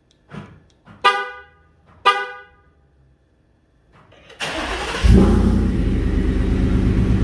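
Two short horn chirps about a second apart, then a Ford F-150's Coyote 5.0 V8 cranks briefly and catches about five seconds in. It settles into a loud, steady idle through headers and a Borla XS Pro exhaust.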